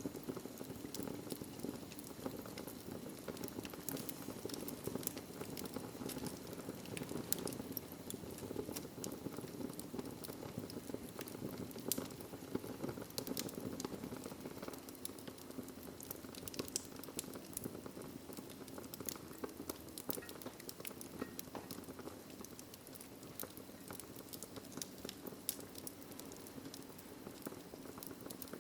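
Wood fire crackling in a fireplace: a steady low rush of flames with frequent irregular pops and snaps.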